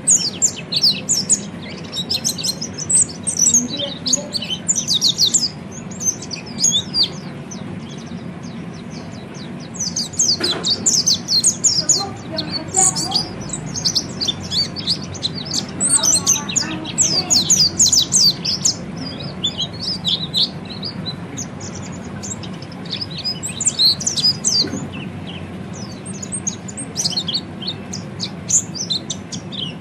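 Orange-headed thrush (peleci) giving its rapid, high-pitched twittering (ngeriwik) in bursts of quick chirps with short pauses between them, over a faint steady low hum.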